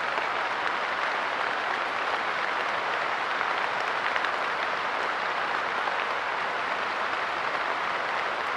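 Steady light rain pattering on a park bench, a dense even patter of small drops with no change in level.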